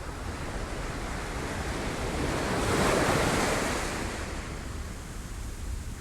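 Sea waves breaking on rocks: one wave swells about two seconds in, crashes near the middle and washes back out, over a steady low rumble.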